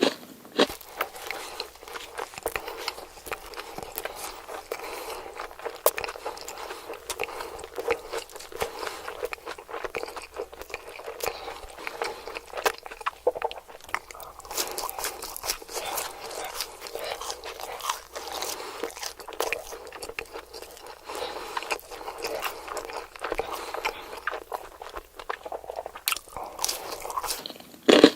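Close-miked eating: crunchy food being bitten and chewed, with a dense, irregular run of crisp crackles and clicks.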